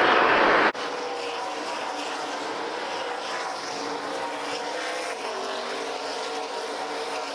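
NASCAR race trucks' V8 engines running on track, heard from the stands: a loud engine roar for the first second, then an abrupt cut to a quieter, steady engine drone with faint held tones.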